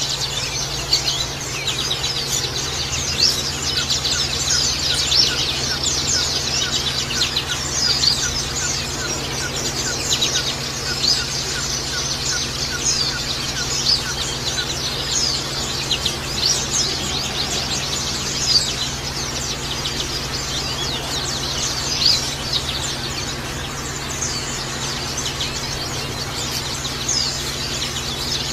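Small songbirds chirping continuously in dense high twitters over a trickling-water background, with a quick run of repeated lower notes for a stretch in the middle, and a steady low hum beneath.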